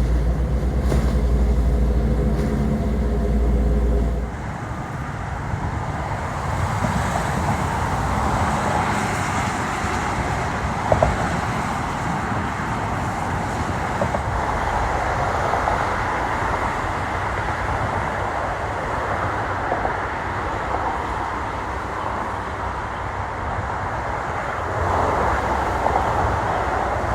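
A loud low rumble with a faint steady hum cuts off abruptly about four seconds in, giving way to a steady wash of distant city traffic noise. A single short knock sounds near the middle.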